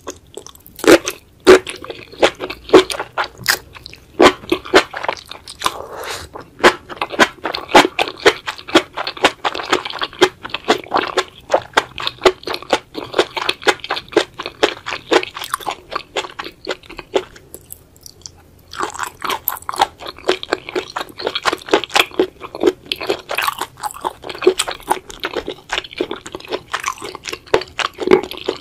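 Close-miked chewing of a mouthful of enoki mushrooms and spicy sauced seafood: a dense run of quick, sharp, wet mouth clicks. It pauses briefly about two-thirds of the way through, then resumes.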